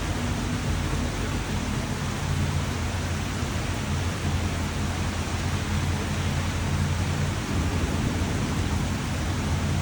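Steady, even rain falling, a dense hiss with a low rumble underneath.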